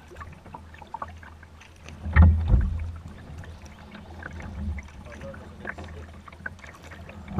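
A kayak being paddled through floodwater: paddle strokes with small splashes and clicks, and two heavy thumps a little after two seconds in.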